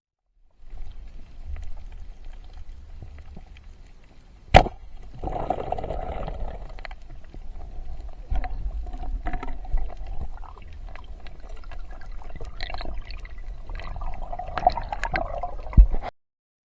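Water gurgling and sloshing in an irregular wash, with a sharp click about four and a half seconds in and another near the end.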